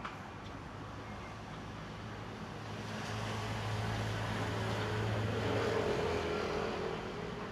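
A motor vehicle engine passing by: a low, steady hum that grows louder over a few seconds, peaks about six seconds in, then fades.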